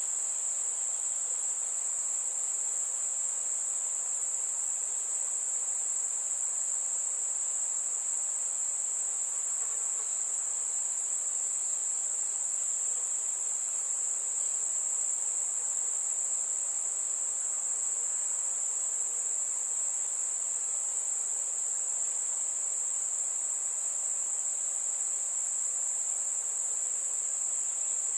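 Insects trilling in one unbroken, high-pitched chorus that stays perfectly steady.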